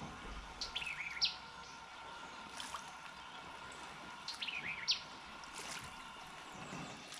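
A songbird singing the same short phrase twice, a few seconds apart: a falling run of notes that ends in a quick rising whistle.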